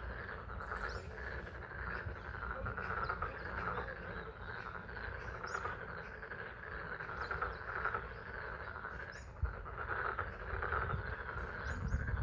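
A chorus of frogs calling continuously in a dense, pulsing mass, over a steady low rumble, with a few short, faint, high chirps.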